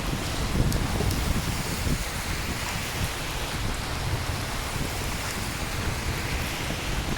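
Steady rain falling, a continuous dense hiss with a low rumble underneath and a few scattered drop ticks.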